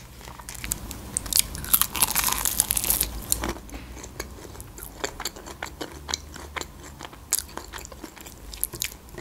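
Crunching as a crispy breaded fried chicken wing is bitten into, with a dense run of crunches in the first few seconds. Then slower, sparser chewing crackles follow.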